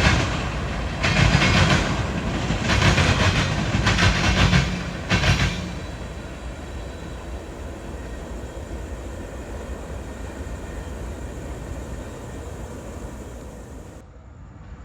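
Freight train cars rolling past, their wheels clattering over rail joints in repeated bursts. About five seconds in the clatter stops and the sound falls to a steady, fading rumble as the train moves off.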